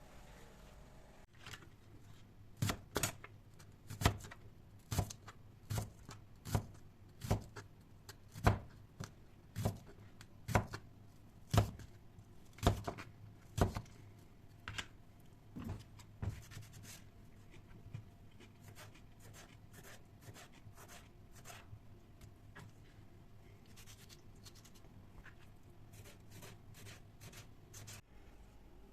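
A run of sharp knocks, about one a second for some fifteen seconds, then only faint clicks.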